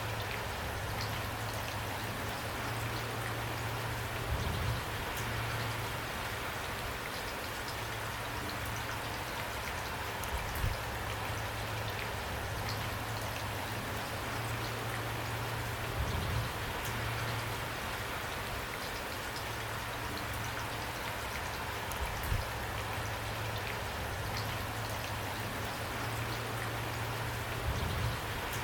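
Steady rain falling, with single drops ticking through it. A soft low thump recurs about every six seconds.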